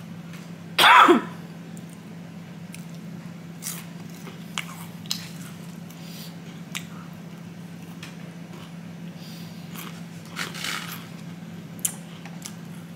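Close-up eating sounds from a mukbang: biting and chewing Raising Cane's fried chicken, with scattered short crunches and mouth clicks. One louder, brief noisy sound comes about a second in, and a steady low hum runs underneath.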